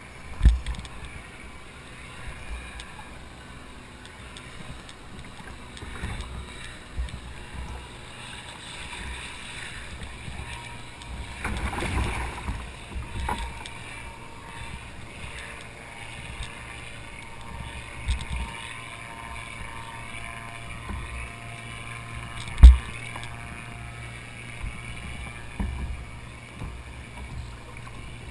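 Water washing and slapping against a kayak hull as it moves, with a few short low thumps, the loudest about two-thirds of the way through.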